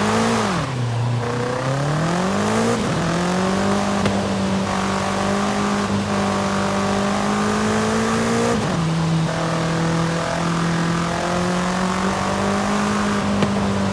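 BMW M5 CS's twin-turbo V8 pulling under load. The engine note climbs, drops sharply about three seconds in as it shifts up, climbs slowly again, then drops once more past eight seconds with another upshift and holds steady.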